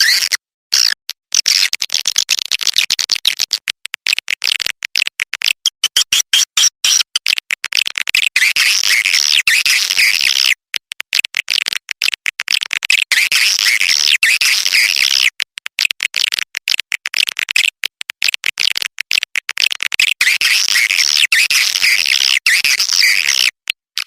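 Recorded swiftlet calls played as a lure for a swiftlet nesting house: a dense, rapid chatter of high twittering chirps, broken by brief silent gaps.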